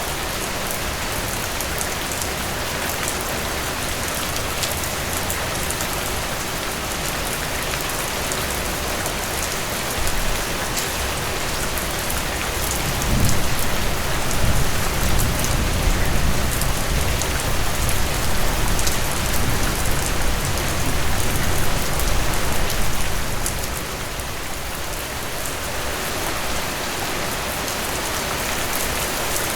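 Steady rain falling on a surface, a dense hiss with many fine drop ticks. A low rumble swells up in the middle for about ten seconds, then eases.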